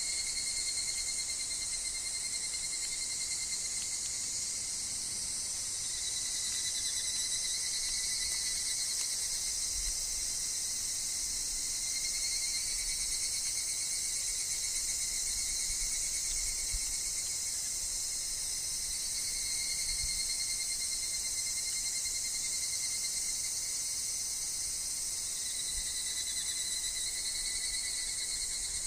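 A chorus of higurashi (evening cicadas) and other insects shrilling steadily. A lower, pulsing call swells and fades in phrases every few seconds over the high, continuous drone.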